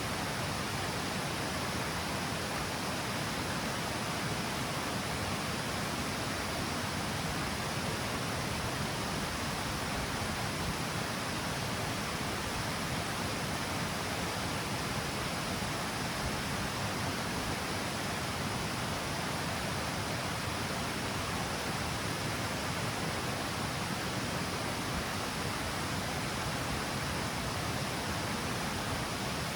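River water pouring down a small stepped cascade, a steady, even rush of falling water.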